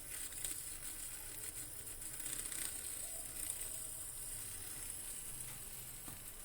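Steady faint hiss with a few light clicks from a pot of milk, coffee and sugar starting to heat on the stove.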